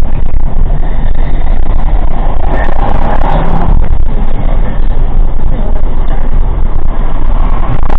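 Steady, loud rumble of a motor vehicle on the move.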